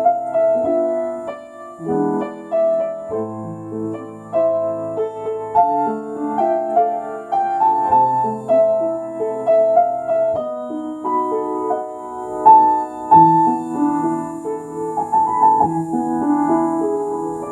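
Solo piano playing a slow, lyrical elegy: a singing melody line over sustained chords and low bass notes, struck at an unhurried pace.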